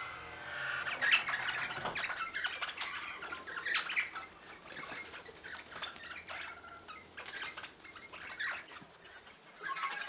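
Birds at a feeder squawking and chirping in short, irregular calls, several close together at times, loudest about a second in and again near four seconds.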